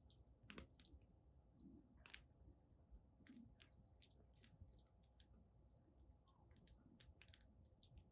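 Wood burning in a bonfire pit, crackling faintly with irregular small pops and a couple of sharper snaps.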